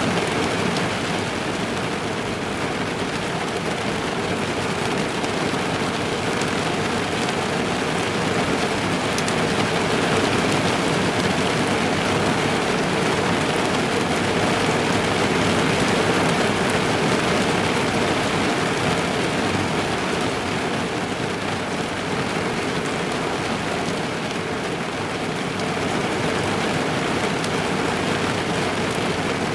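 Rain drumming on a car's roof and windows, heard from inside the car: a dense, steady patter of drops.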